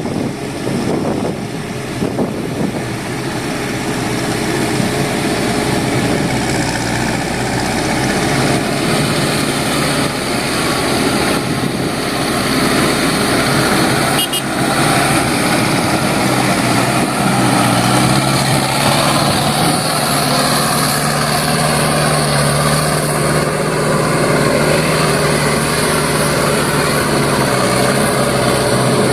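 Isuzu Elf NMR71 dump truck's diesel engine running steadily, with a low hum that grows stronger in the second half.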